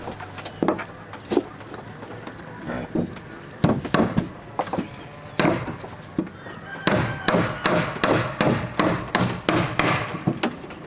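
Repeated blows of a tool on wood, scattered at first, then a quick even run of about three strikes a second in the second half.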